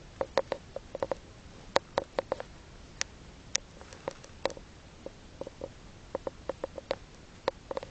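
Budgie making an irregular run of short, sharp clicks and taps, some in quick clusters of three or four.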